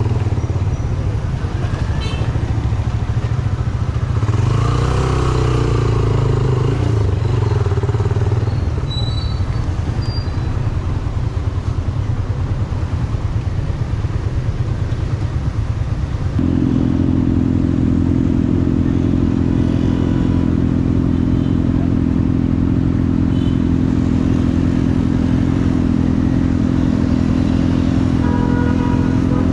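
Yamaha YBR 125G's single-cylinder four-stroke engine running as the motorcycle is ridden in city traffic. From about halfway through, the engine note settles into a steady, even pitch.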